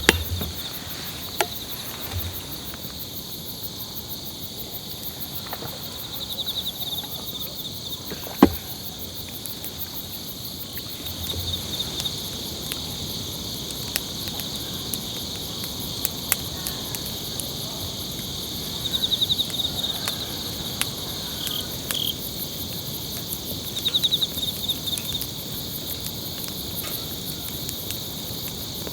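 Insects chirping in a steady high-pitched chorus, with pulsed trills rising above it now and then. A few sharp knocks or clicks, the loudest about eight seconds in.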